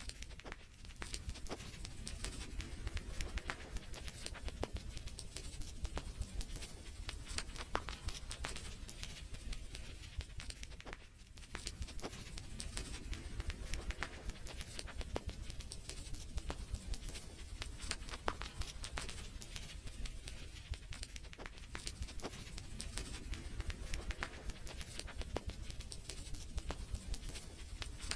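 Wood fire crackling in a fireplace: a dense, irregular run of sharp pops and snaps over a low steady rumble of the flames, with a brief lull about eleven seconds in.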